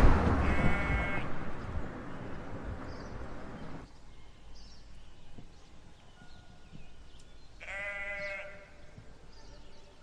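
Sheep bleating twice: a short bleat near the start and a longer, wavering bleat about eight seconds in. Under the first few seconds there is a rushing noise that fades and then cuts off.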